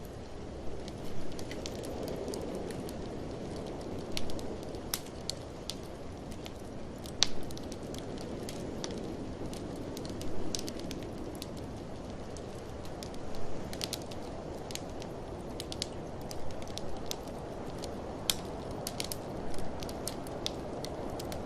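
Wood fire crackling in a fireplace, with irregular sharp pops and snaps, the loudest every few seconds. Beneath it runs a steady blizzard wind that swells and fades slowly.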